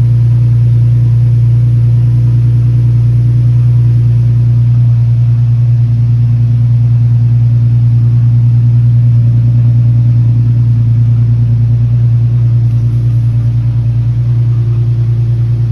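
Car engine with its muffler deleted, idling after a cold start: a loud, steady, low exhaust drone with a throbbing pulse underneath.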